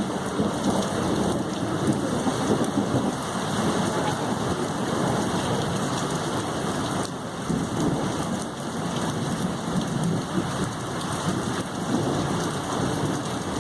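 Heavy rain falling steadily during a thunderstorm, with thunder rumbling in slow swells underneath.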